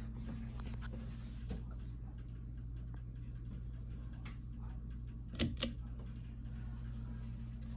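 Casablanca Victorian five-blade ceiling fan running, its motor giving a steady low hum, with scattered light ticks and two sharp clicks close together about five and a half seconds in.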